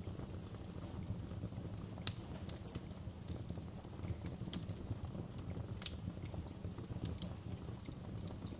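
Wood fire crackling in a fireplace: irregular sharp pops and snaps over a steady low rumble, with the loudest pops about two seconds in and again near six seconds.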